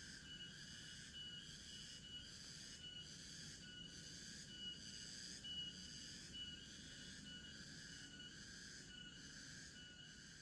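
Faint chorus of forest insects: a high, steady chirring that pulses about once a second.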